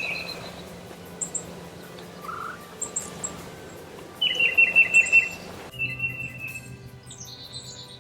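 Songbirds chirping and calling, with a loud trill of rapid repeated notes about four seconds in. The background hiss changes abruptly shortly before six seconds, and a similar trill follows.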